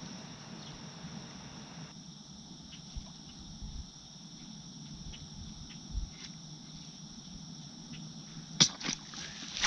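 Steady hiss of rain with scattered faint ticks, and two sharp sounds a fraction of a second apart near the end.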